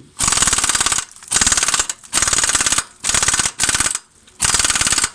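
Impact wrench hammering on a tight 18 mm steering-rack mounting bolt in about six short bursts, each under a second long. The bolt is torqued hard and the gun struggles to break it loose.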